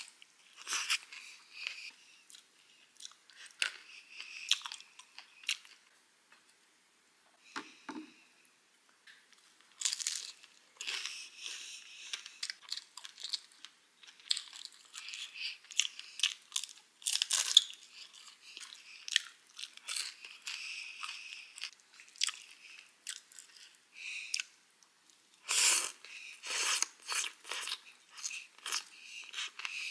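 A person chewing and crunching mouthfuls of bún bò Nam Bộ, a salad of rice noodles, beef, fresh herbs and raw vegetables. The sound is a run of crisp crunches and wet mouth clicks, with louder bouts of biting about ten, seventeen and twenty-six seconds in.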